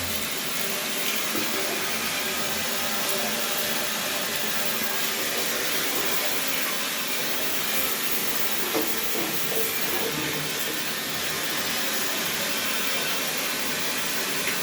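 Steady hiss of water rushing through a partly opened valve into household pipework, as an airlock is being cleared.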